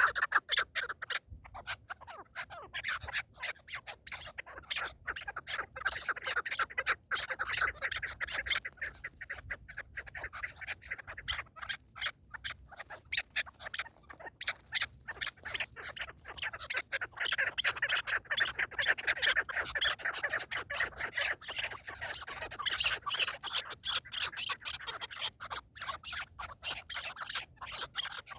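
Partridges calling: rapid, repeated chattering notes that run on without a break.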